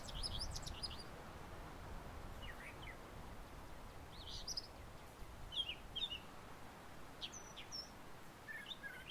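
Wild birds chirping: short, high calls scattered every second or so, over a faint low background noise.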